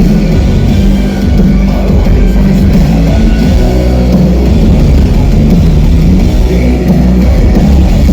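Live darksynth band at full volume, with heavy bass, electric guitar and drums, recorded from the crowd and dominated by the low end.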